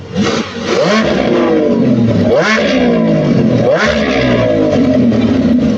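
Car engine revved hard over and over. The pitch shoots up sharply three times and falls away in between.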